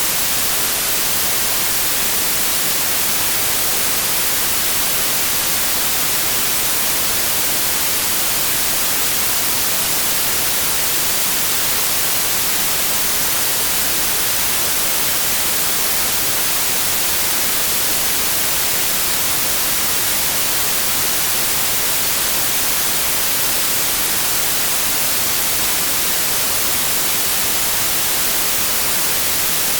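Synthetic white noise: a steady, even hiss across the whole range, bright in the highs, with no change.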